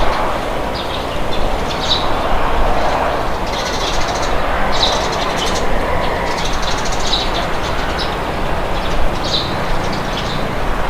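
Steady rushing wind with small birds chirping repeatedly over it, short high chirps coming every second or so.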